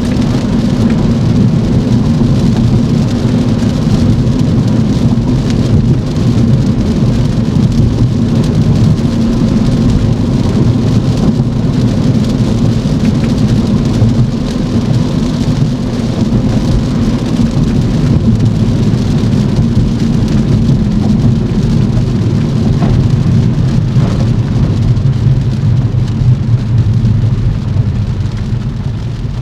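Steady rain and wet-road tyre noise from a car being driven in the rain, over a constant low rumble.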